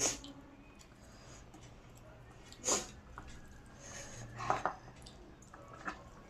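Mouth sounds of someone eating: a few short, separate smacks and slurps over about six seconds.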